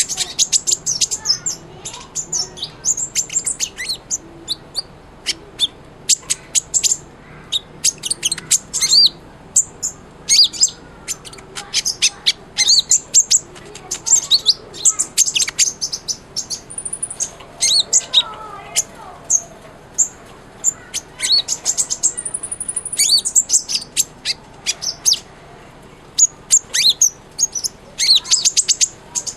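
A kolibri ninja sunbird singing in full voice: rapid bursts of high, thin chirps and trills separated by short pauses, with one longer held high note a little past the middle. A faint steady low hum runs underneath.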